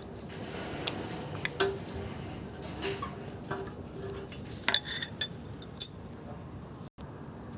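Irregular light metallic clinks and clicks from metal parts in a car's engine bay, with a loud cluster about two-thirds of the way through.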